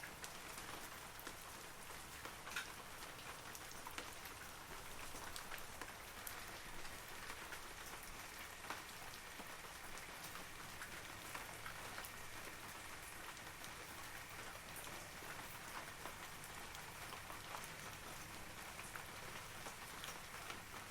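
Steady rain falling on leaves, a soft hiss with many separate droplets ticking through it.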